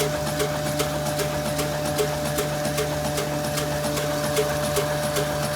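Old stationary diesel engine running steadily, with an even knock about two and a half times a second over a steady hum.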